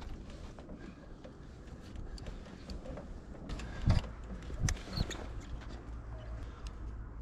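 Scattered clicks and knocks from hand work on the electrical installation, with a heavier thump about four seconds in and another shortly after, over a low steady hum.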